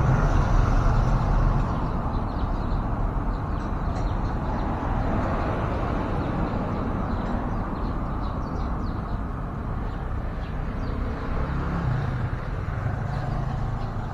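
Steady road traffic with a vehicle engine hum, a little louder at the start and again near the end, with faint short bird chirps scattered over it.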